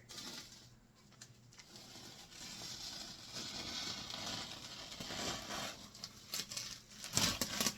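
Tape being peeled off the edge of a painting: a long, rasping tearing sound, then a few sharp crackles near the end.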